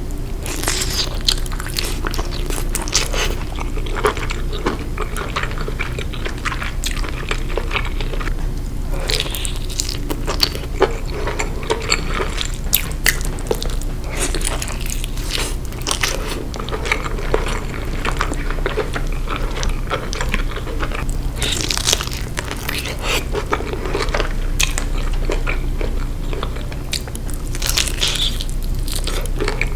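Close-miked eating of garlic butter seafood: irregular biting and chewing with crunches and crackles, over a low steady hum.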